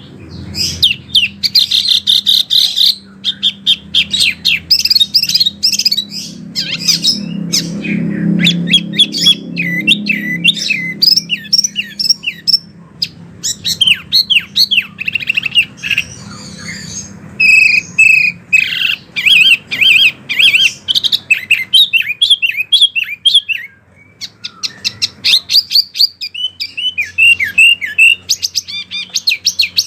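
A wambi songbird singing: rapid, high chirps and twittering phrases run together in long bursts, with two short pauses. A faint low hum sits underneath.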